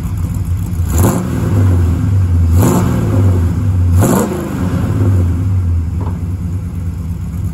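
Mopar small-block V8 in a 1965 Dodge Coronet running through its new full exhaust, idling with three quick revs up and back down, about one, two and a half and four seconds in.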